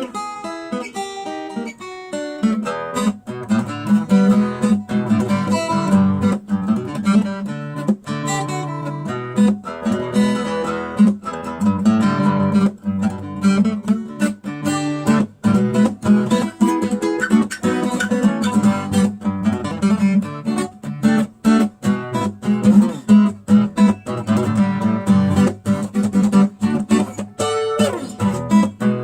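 Background music: acoustic guitar picked and strummed with a steady rhythm.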